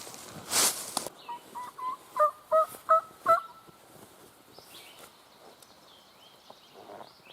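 A turkey yelping: a run of about seven short yelps, the last four louder, each with a low and a high note. A brief rustle comes just before the yelps.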